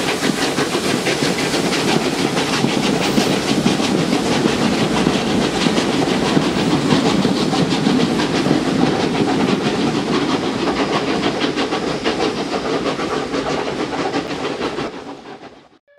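A steam-hauled train of passenger coaches rolling past beneath a bridge, the wheels clattering rapidly over the rails with some steam hiss, then fading away quickly near the end.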